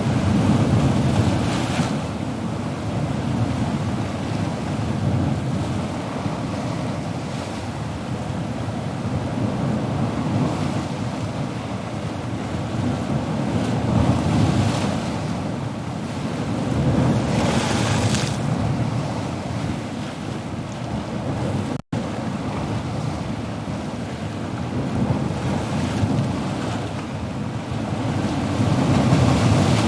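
Ocean surf: waves breaking and washing in, a continuous rush that swells and ebbs every few seconds. One brighter, hissing wave comes a little past the middle, and the sound cuts out for an instant about two-thirds of the way through.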